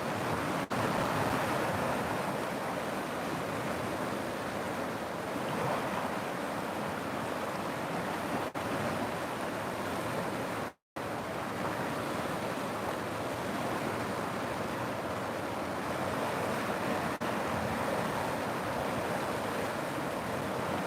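Rushing river water, a steady even wash of noise. It is broken by a few momentary dips and one brief complete cut-out about eleven seconds in.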